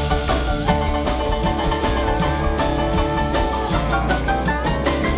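Live band playing an instrumental keyboard solo over bass and drums, with steady cymbal ticks keeping the beat.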